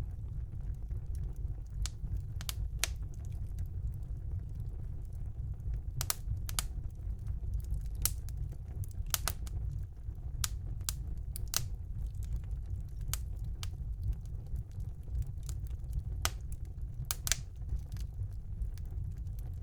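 Wood fire burning in a fireplace: a steady low rumble of the flames with sharp crackles and pops at irregular intervals.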